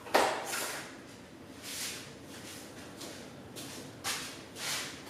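A series of short scrapes and knocks as wooden pieces are handled and shifted into place, the loudest just after the start.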